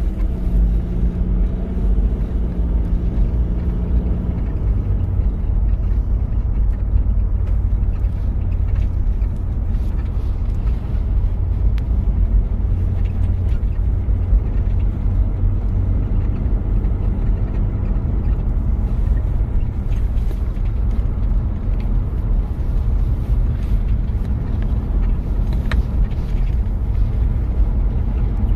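1993 Toyota Prado's diesel engine running under way: a clear, steady engine note for the first four seconds, then an even, low rumble for the rest.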